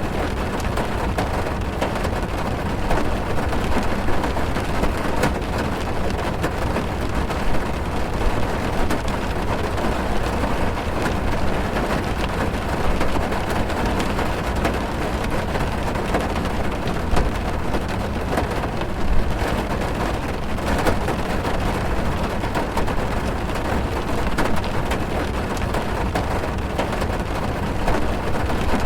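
Heavy rain drumming on a car's roof and windows, heard from inside the cabin: a steady dense patter with many sharp drop hits, deep and muffled.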